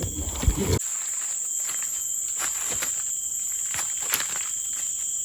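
Steady high-pitched drone of forest insects, with scattered crackles and rustles of someone stepping and moving through the undergrowth; a heavier low thud-like handling noise in the first second.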